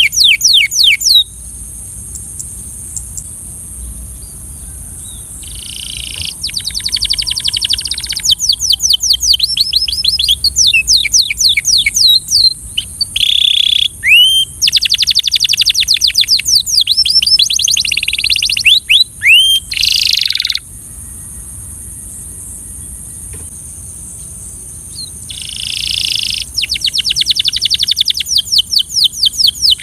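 Canary singing in long rolling trills of fast repeated high notes. It sings three phrases, broken by pauses of a few seconds, over a steady high hiss.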